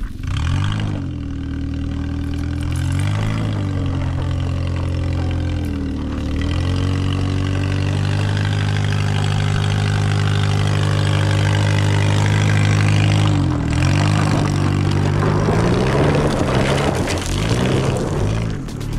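Toyota Starlet's small four-cylinder engine pulling hard up a steep dirt hill, its revs dipping and picking up again several times. Near the end there is a rough scrabbling noise as the front tyres lose traction on the loose surface.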